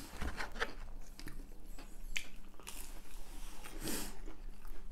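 People chewing and biting fried chicken nuggets, with irregular short crunches and wet mouth sounds.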